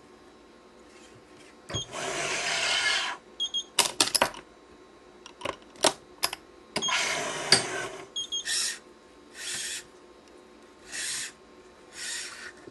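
Badminton string being pulled through the woven cross strings of a racket: two long rasping swishes, then four shorter ones near the end. Between them come sharp clicks and knocks from the stringing machine's clamps and tensioner as a cross is tensioned.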